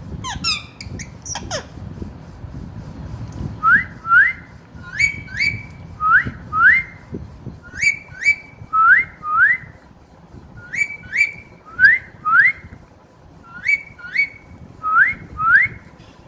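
Pet green parrot whistling: about nine pairs of short rising whistle notes, some opening with a brief harsh chirp, after a few squeaky calls at the start.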